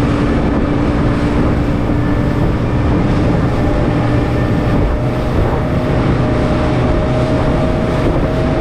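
Motorboat engine running steadily under way, with wind buffeting the microphone and rushing water.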